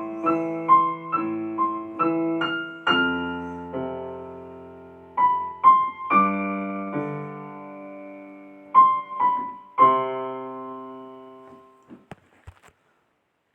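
Solo piano music: a slow phrase of struck notes and chords that ends on a held chord, fading out about twelve seconds in, followed by a few faint clicks.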